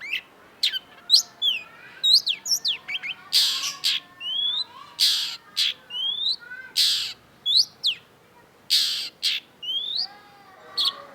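Long-tailed shrike singing: a fast run of sharp chips and short rising whistles, broken by several harsh rasping notes about a second apart in the middle.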